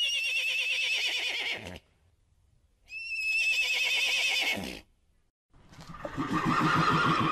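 Horse whinnying three times: two high calls with a quavering, wavering pitch, each about two seconds long, then a third, lower-pitched call near the end.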